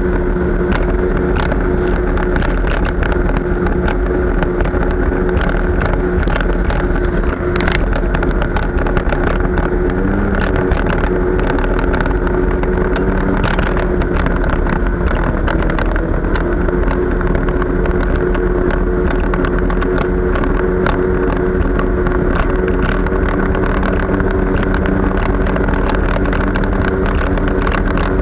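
Jet ski engine running steadily at speed. Its pitch dips briefly about ten seconds in and again near sixteen seconds, with frequent short, sharp noises mixed in.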